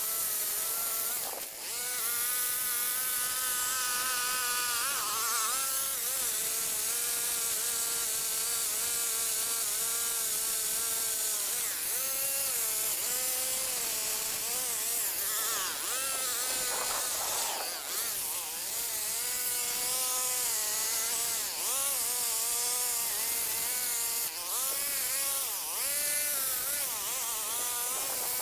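Gas chainsaw running at high revs while cutting tree limbs, a steady buzz whose pitch keeps dipping and recovering as the chain bites into the wood.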